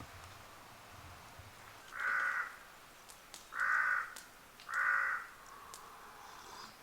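A crow cawing three times, each caw about half a second long.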